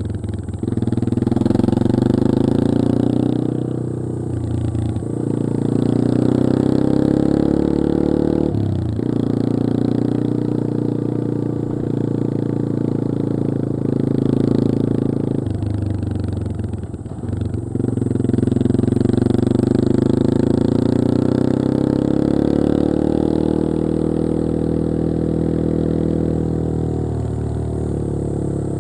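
Yamaha XT225 Serow's single-cylinder four-stroke engine running under way. The revs rise and fall, with the throttle briefly closed several times and the engine pulling up again after each.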